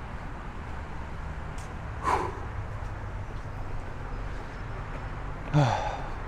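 A man's heavy breathing while climbing uphill: two loud exhales, about two seconds in and near the end, the second with a short falling sigh in the voice, over a steady low rumble.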